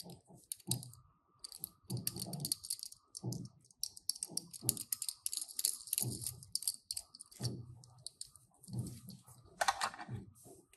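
Handling of Tomica die-cast toy cars and their plastic packaging at close range: a run of quick small clicks and rattles with dull knocks about once a second, and a brief louder scrape near the end.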